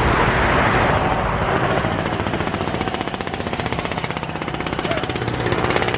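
A motor vehicle's engine going by close on the road, with a fast, even pulsing rattle that swells in the first second and eases off in the middle.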